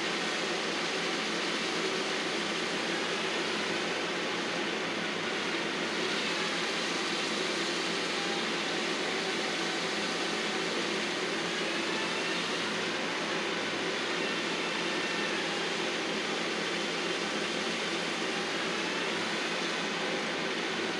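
Heavy landscaping machinery running steadily, an engine drone with faint whines that drift slightly up and down in pitch.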